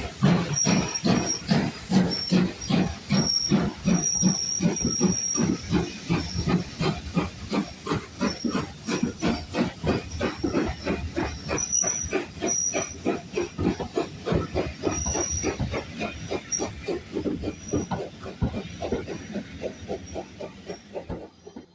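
Steam locomotive working a train, its exhaust chuffing in a rapid, regular beat that grows fainter as it draws away, then cuts off abruptly near the end.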